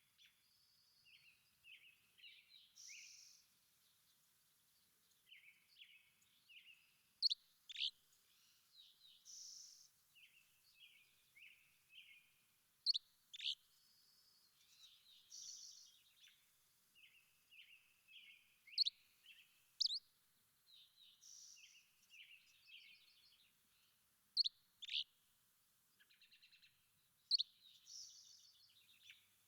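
Birds singing and calling: loud, sharp, high chirps, often two close together, come every few seconds over softer twittering phrases.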